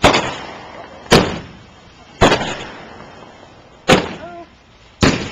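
Consumer fireworks going off: five sharp bangs about a second apart, each echoing away before the next, from a finale board of fused mortar tubes.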